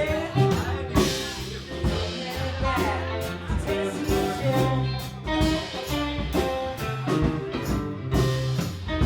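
Live rock band playing a song: electric guitar and bass over a steady drum-kit beat.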